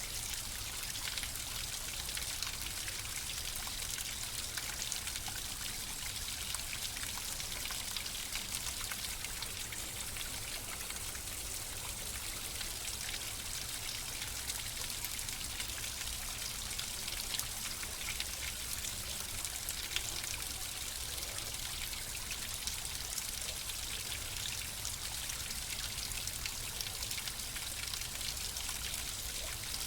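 Flowing water trickling and splashing steadily, with a fine patter of drops.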